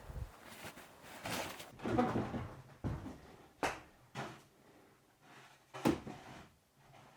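Gear and objects being handled: rustling and shuffling, broken by two sharp knocks or clunks about three and a half and six seconds in.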